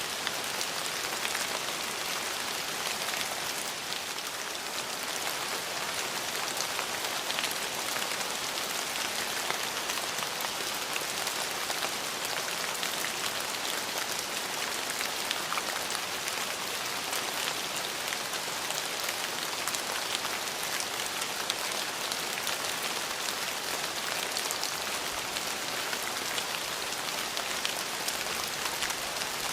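Steady rain falling, an even hiss with many fine, close drop patters.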